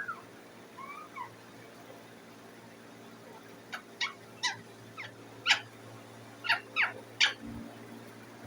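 Indian ringneck parakeet calling: a few soft whistled glides, then a quick run of about ten short, shrill chirps starting a little past the middle, the loudest sound here. A faint steady hum runs underneath, with one dull bump near the end.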